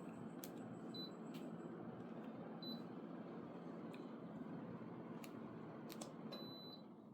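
Daikin FTC15NV14 mini split indoor unit with its fan running steadily, giving short high beeps about a second in and near three seconds as it takes remote commands, amid a few sharp clicks. A longer beep near the end marks it being switched off, and the fan noise then starts to fall away.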